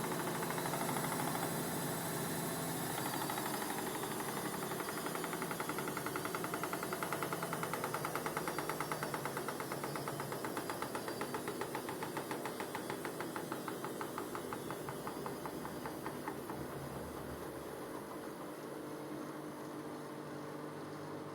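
Vestel washing machine drum winding down at the end of its final spin: a rhythmic whirring whose beats slow and grow fainter as the drum loses speed.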